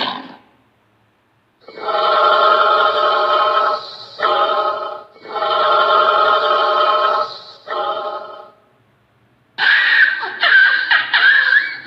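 An animal's long, steady, pitched call, heard twice in a row with the same shape each time. After a short silence, a different animal's call with quickly shifting pitch starts near the end.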